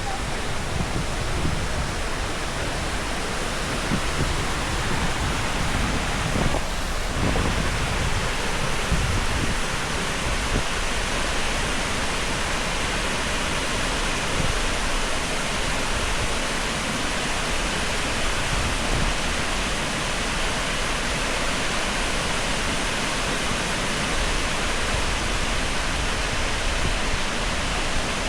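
Can-umantad Falls, a tall waterfall, pouring steadily: an unbroken rush of falling water.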